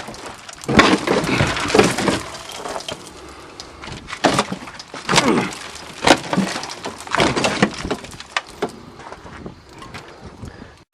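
Repeated metal bangs, clanks and short scraping squeals as the fuel tank of a 1982 Toyota Cressida is worked loose from its rusted mounting and pulled out.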